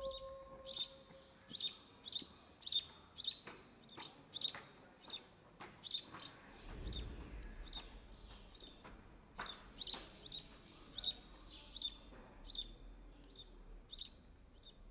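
A small songbird chirping faintly and repeatedly, short high chirps about twice a second with brief pauses. A held musical tone dies away in the first second.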